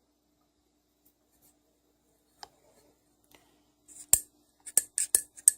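Small metal engine parts being handled on the bench. A couple of light clicks come first, then, about two-thirds of the way in, a quick run of sharp metallic clicks and clinks.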